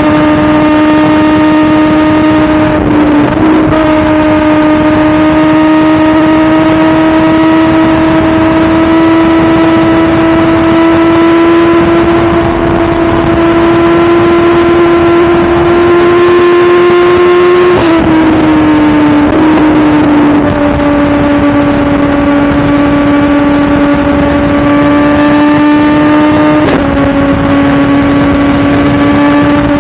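BMW S1000RR's inline-four engine running at high revs under way, its note creeping slowly upward and stepping down three times as gears are changed, with wind rush over it.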